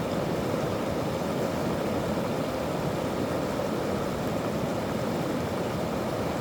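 Steady, even rushing noise with no separate events, strongest in the low-middle range.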